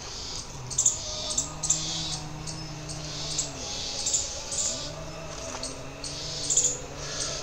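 Small birds chirping over and over, with two long, low drawn-out tones of about two seconds each, each sliding up at its start and down at its end.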